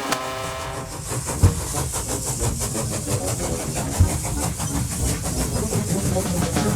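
Steam train running, with a fast, even chuffing hiss. Two thumps stand out, about one and a half and four seconds in.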